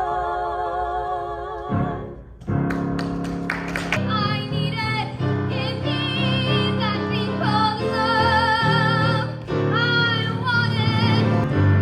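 A woman singing a show tune with strong vibrato over instrumental accompaniment. A held note breaks off just under two seconds in, and after a short pause the singing resumes with a run of sustained, wavering notes.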